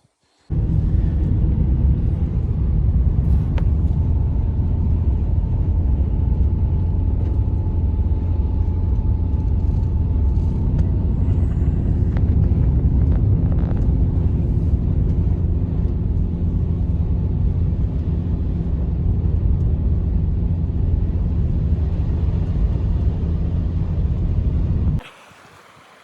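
Strong blizzard wind buffeting the microphone: a loud, steady low rumble that starts suddenly about half a second in and cuts off abruptly near the end.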